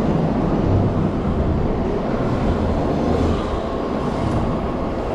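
Steady rushing wind and road noise on a body-mounted GoPro while riding an electric bike through city traffic.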